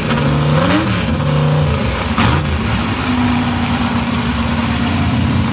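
A mega truck's big engine revs in quick blips, pitch rising and falling, with a short hiss about two seconds in, then holds a steady high note from about three seconds in.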